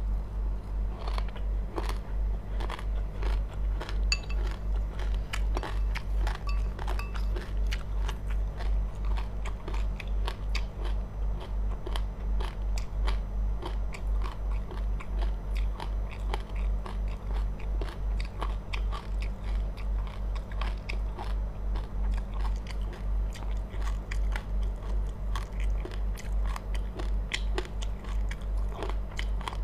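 Close-miked chewing of crunchy seeds: many small crackles and crunches in a steady chewing rhythm, over a constant low hum.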